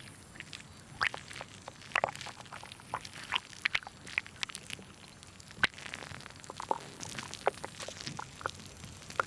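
Wet underwater-pond sound: scattered small clicks, drips and bubbly pops, a few per second and irregular, over a faint hiss, with one sharper click about halfway through.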